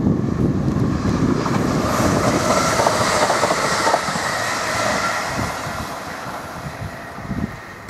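Chiltern Railways diesel multiple unit passing close by, wheels clattering on the rails with a thin squeal in the middle. The sound drops about four seconds in, to a quieter rumble.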